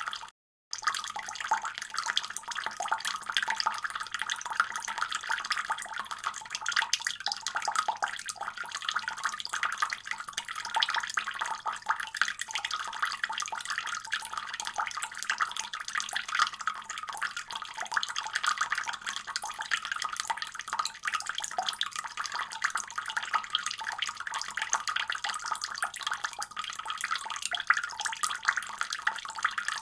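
Water running steadily from a faucet, a constant splashing rush. It cuts out for a fraction of a second just after the start, then carries on unchanged.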